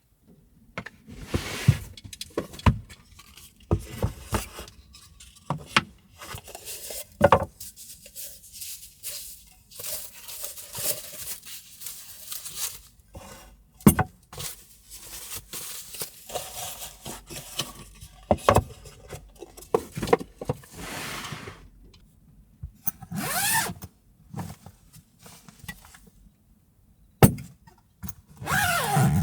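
Objects being handled and moved about: irregular scraping and rattling with many sharp clicks and knocks, the loudest about a third and two thirds of the way in and near the end.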